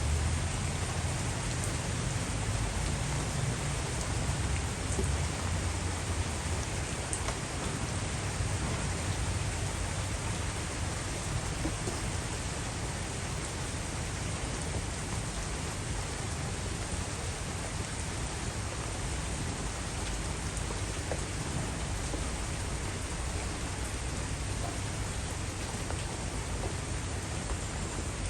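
Heavy rain pouring steadily, with a low rumble underneath that is strongest in the first ten seconds or so.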